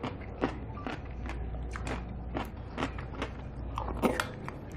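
Close-miked eating sounds: a person chewing food with irregular short wet clicks and smacks, about two or three a second, and a brighter clink about four seconds in as a spoon meets a bowl.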